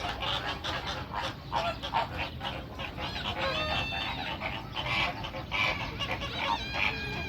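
Many birds calling over one another in short, rapid calls, with two longer pitched calls, one about halfway through and one near the end.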